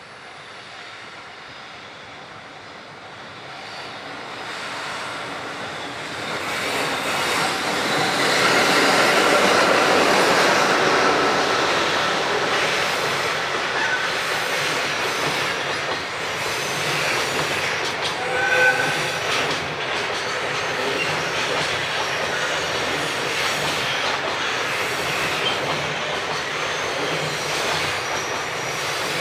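Freight train approaching, getting louder over the first several seconds, then passing steadily for the rest of the time, with a couple of brief high squeals partway through.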